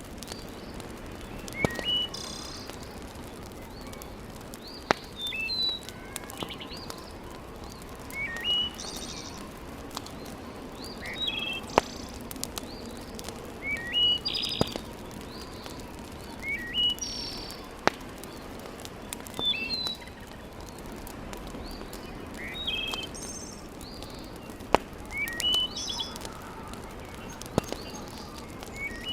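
Wood fire crackling with sharp, scattered pops over a steady low hiss, while a bird repeats a short phrase of rising chirps every few seconds.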